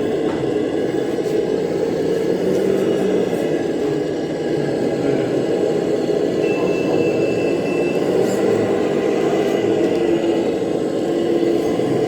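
Radio-controlled scale model vehicle running, with a steady mechanical whir.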